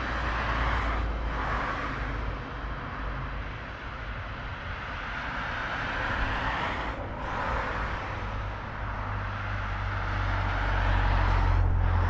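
Freight train of tank wagons rolling away along the track, a steady rumble of wheels on rail, mixed with cars passing on the adjacent road; a low rumble swells toward the end.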